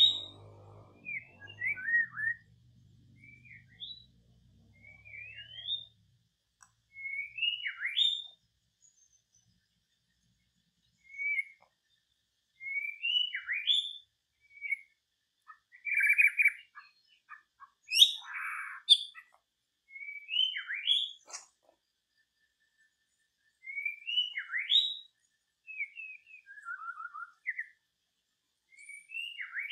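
Bird calls: short, rising whistled notes, repeated in bursts of several at a time with pauses between them.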